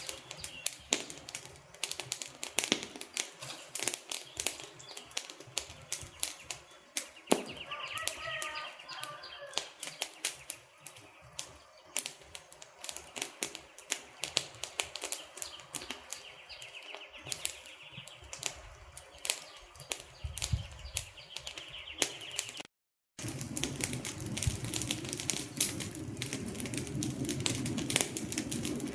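Wood fire crackling, with dense, irregular sharp pops and snaps. About two-thirds of the way through the sound cuts out for about half a second, then comes back with a fuller rushing sound of the flames under the crackles.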